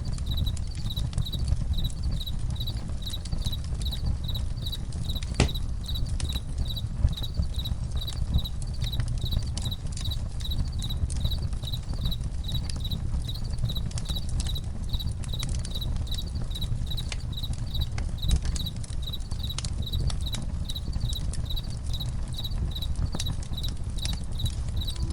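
Campfire crackling with a low rumble and scattered sharp pops, one louder pop about five seconds in, over crickets chirping steadily, about two chirps a second.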